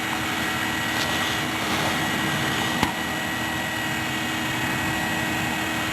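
2008 Honda CR-V's four-cylinder engine idling steadily just after an extremely cold start, with a faint steady whine over the running noise. A single sharp click sounds about halfway through.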